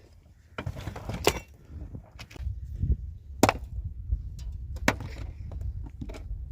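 Irregular sharp knocks and clicks, with three louder cracks spread through, over a low rumble.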